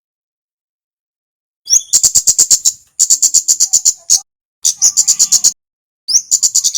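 A male kemade singing: starting about a second and a half in, four phrases, each opening with a short rising note and then running into a fast string of sharp, high chirps, about eight a second.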